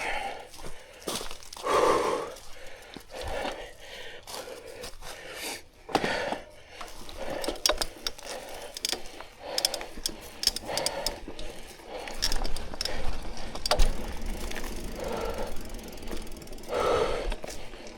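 Mountain bike riding over a rough trail: irregular rattling and clicking from the bike's chain and frame as the tyres roll over bumps.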